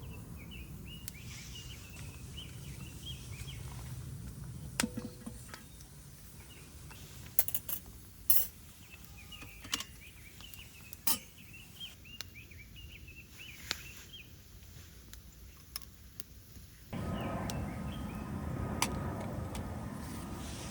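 Scattered clinks and knocks of metal camp cookware being handled while making coffee, with small birds chirping in the background. Near the end a steady rushing noise starts suddenly.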